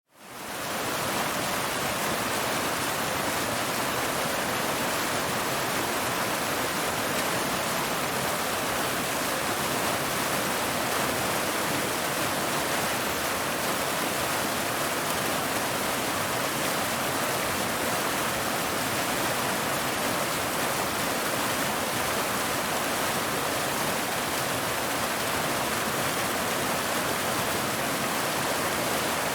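Waterfall cascading over rocks: a steady, even rush of falling water that fades in over the first second.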